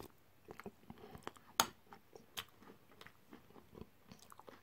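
Faint chewing of a mouthful of jam roly poly in custard, with soft crunches from the slightly overcooked pastry and scattered mouth clicks; one sharper click about one and a half seconds in.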